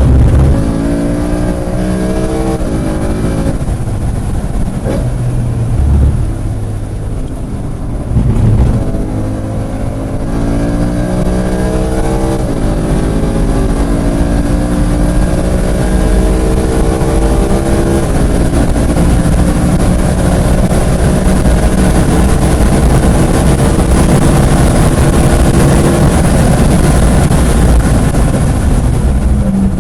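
Race-prepped car's engine heard from on board, accelerating hard through the gears: the pitch climbs, drops at each upshift, and climbs again. In the second half it pulls in one long rise while wind and road noise build with speed.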